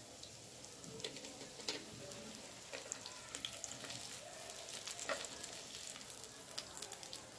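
Breadcrumb-coated potato kababs shallow-frying in hot oil, a steady sizzle with scattered sharp crackles. A metal spoon lifting them out of the pan adds a few light knocks and scrapes.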